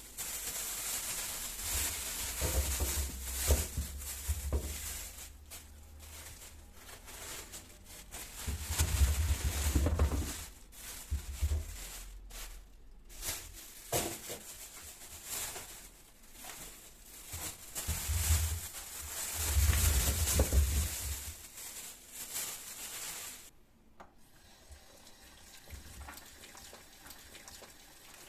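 Kitchen tap running into a sink, with a few low thumps of handling in the water. The water stops suddenly, leaving quiet room sound.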